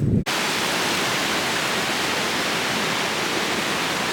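Waterfall rushing: a steady, even roar of falling water, beginning suddenly about a quarter second in after a cut.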